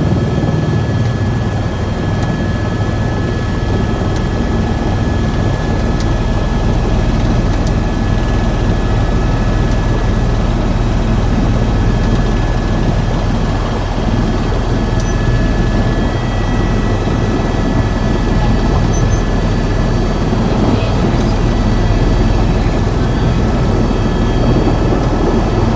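Helicopter's turbine and rotor running steadily: a constant loud low drone with a fine beat, over which a few thin high whine tones hold steady throughout.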